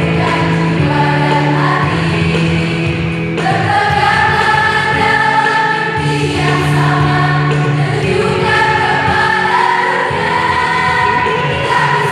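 A choir singing in several parts, holding sustained chords that change every second or two.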